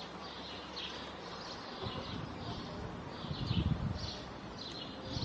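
Small birds chirping over and over, short falling chirps. A low hum cuts off about a second in, and a dull low thump, likely handling under the car's bonnet, comes about three and a half seconds in.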